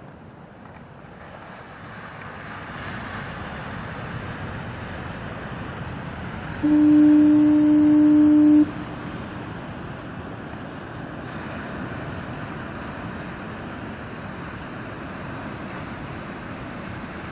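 A foghorn sounds one steady, low-pitched blast of about two seconds, starting about a third of the way in, over the continuous wash of heavy Atlantic surf.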